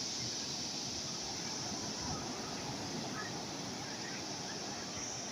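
Steady wash of calm sea waves, a constant even rush with no distinct breakers.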